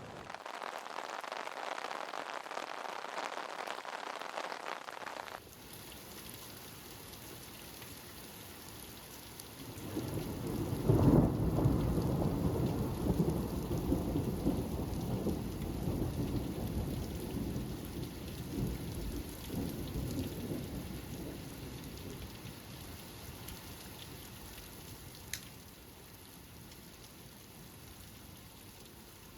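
Rain falling steadily, with a long roll of thunder that sets in about ten seconds in, peaks quickly and then rumbles away slowly. There is a brief click near the end.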